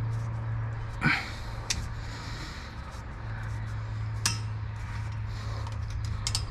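A few sharp metal clinks and knocks of tools during rear shock replacement on a pickup, the loudest about a second in, over a steady low hum.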